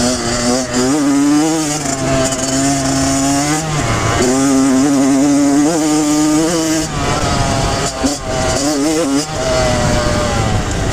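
Kawasaki KX100 two-stroke dirt bike engine running hard under throttle while being ridden. The engine note holds steady for stretches and drops sharply about four seconds in, then climbs back. It wavers and falls again twice near the end as the throttle is worked.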